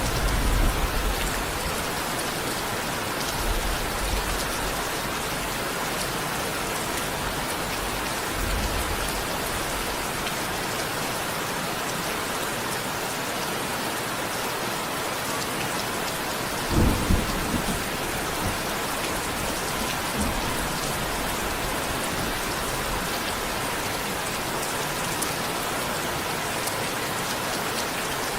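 Steady heavy rain falling, with low rumbles of thunder now and then and a short, louder thunder clap a little past the middle.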